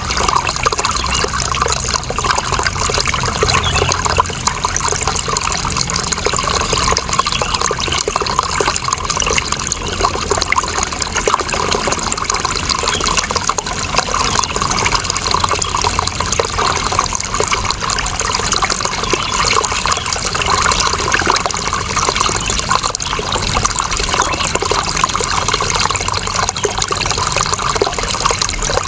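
Running water, a steady continuous flow without pauses or changes.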